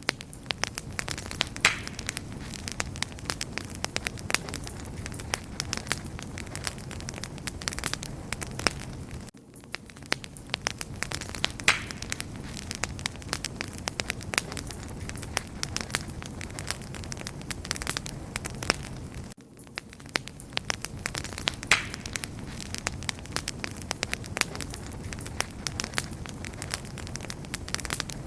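Wood fire crackling steadily, with dense sharp pops and snaps over a low rumble of flames. The crackle briefly dips in level about every ten seconds.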